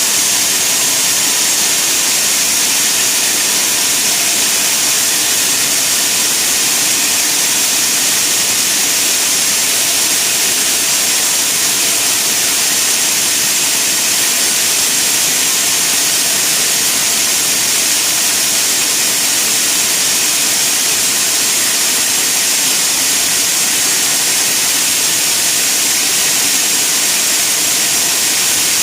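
Sawmill saw running steadily: a loud, unbroken hiss with no pauses or changes in pitch.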